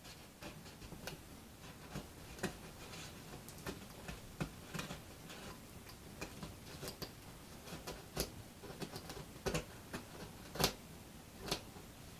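Scattered, irregular light clicks and taps of small hardware and tools being handled on a workbench, with a louder sharp tap a little before the end.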